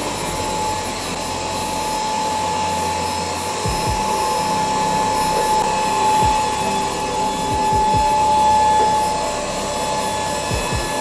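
Handheld bed vacuum cleaner running steadily, a constant high whine over the motor's rush of air, with several dull low bumps.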